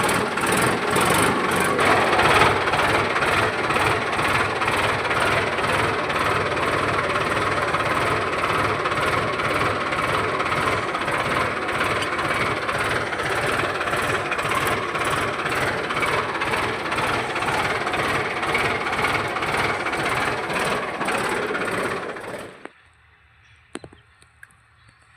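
Tractor engine running steadily with a fast, even beat. It cuts off abruptly near the end, leaving only faint background.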